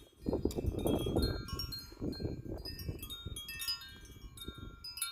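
Several wind chimes ringing in strong gusting wind, many overlapping tones struck again and again. Wind buffets the microphone, loudest in the first second or so.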